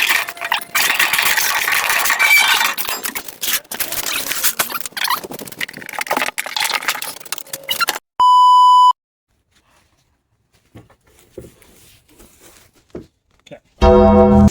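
Noisy hissing with scattered clicks for about eight seconds, then a short steady electronic beep, a few seconds of near quiet, and a loud buzzing tone that starts just before the end.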